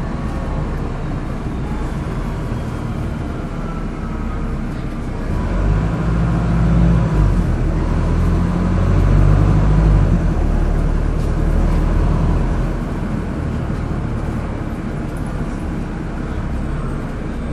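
Wright StreetDeck double-decker bus's Mercedes-Benz OM934 diesel engine running in service. The engine grows louder and deeper for about five seconds in the middle as it works harder, then eases back to a steady run.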